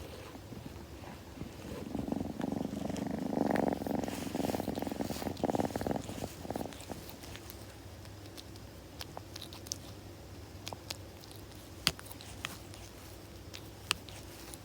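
Kitten purring close to the microphone, a rapid rumbling pulse that is loudest for several seconds near the start and then fades to a faint purr. A few sharp clicks come near the end.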